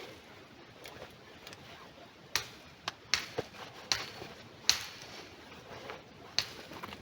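Dry twigs and bark snapping and crackling: about seven sharp, irregular cracks over several seconds.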